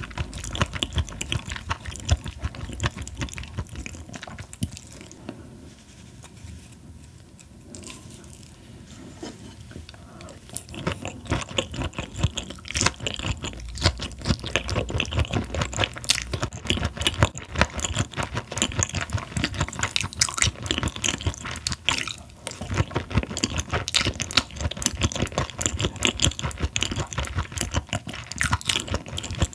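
Close-miked chewing of raw Chinese herring, with small crunches from its fine bones; the chewing is quieter for a few seconds early on, then busy and crackly again from about ten seconds in.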